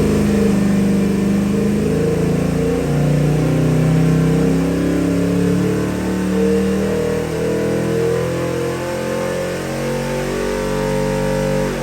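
Chrysler 360 V8 crate engine running and being revved, its pitch holding and then stepping up and down every second or two.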